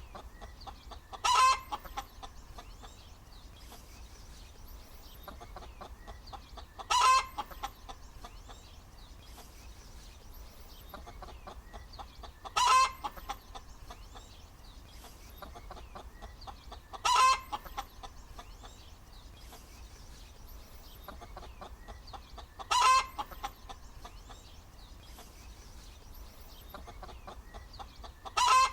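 Domestic hen cackling: a short, loud call about every five to six seconds, six in all, with fainter clucks between them.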